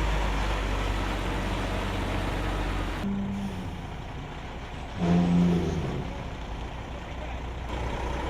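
Heavy military truck engine running with a deep rumble; the sound changes abruptly about three seconds in, and a short, louder pitched tone that drops in pitch at its end comes about five seconds in.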